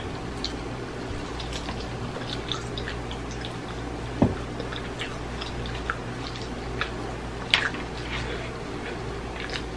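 Close-up eating sounds of ribs eaten by hand: wet chewing and smacking as meat is torn from the bone and bitten. There are scattered short clicks throughout, and two sharper ones come about four and seven and a half seconds in.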